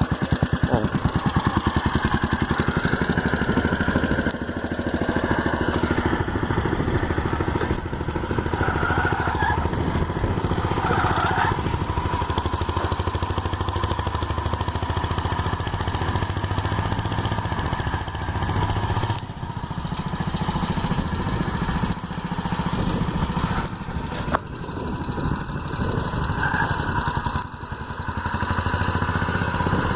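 Small engine of a homemade mini tractor running steadily while ploughing, its sound dipping briefly a few times in the second half as the load changes.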